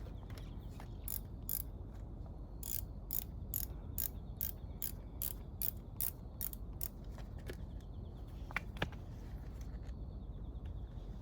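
Hand ratchet wrench clicking in an even rhythm, about two to three clicks a second, for several seconds, followed by a couple of separate light metallic ticks.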